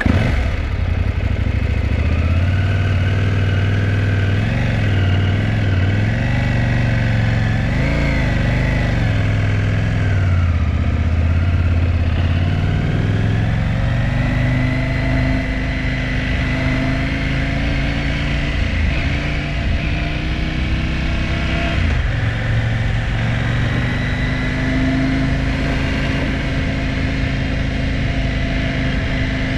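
KTM 790 Adventure R's parallel-twin engine running unevenly. Its pitch wavers and dips briefly several times. This is the hesitation the bike suffered from, which the shop traced to a failed immobiliser that may have put the engine into safe mode.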